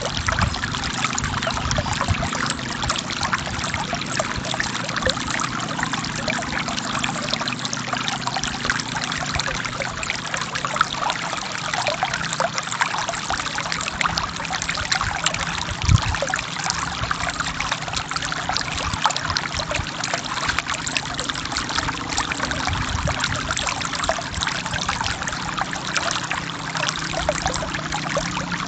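Forest stream flowing steadily over rocks, a continuous splashing, trickling rush of water. About halfway through, one brief low thump stands out.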